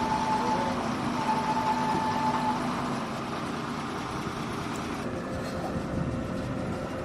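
Heavy vehicle engine running steadily, a little louder for the first three seconds and then easing off.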